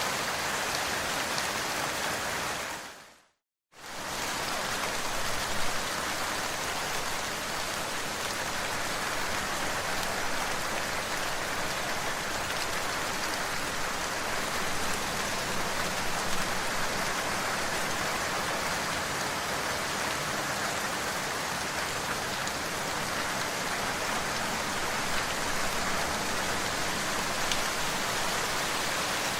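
Steady rain falling, a dense even hiss with faint scattered drop ticks. About three seconds in it fades out to silence for about half a second, then swells back.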